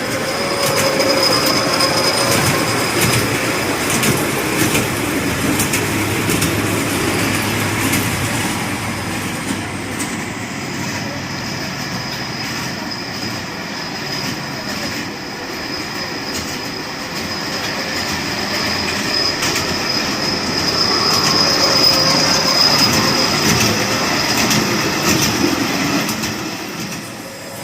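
Mini amusement-ride train on an up-and-down track running continuously, its wheels rolling and squealing on the rail with a steady high whine and scattered clicks. It grows louder twice, early on and again about two-thirds of the way in, as it passes closer.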